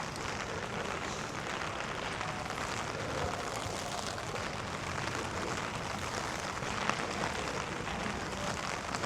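Steady rain falling on a city street: an even, continuous hiss.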